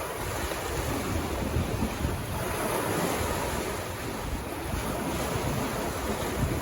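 Sea waves breaking and washing up the beach, a swell of surf wash about halfway through, with wind buffeting the microphone and gusts rumbling low.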